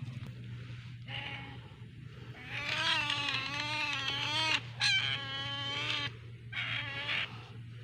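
Otter squealing: a run of about five wavering, whining calls, the longest lasting about two seconds midway, over a steady low hum.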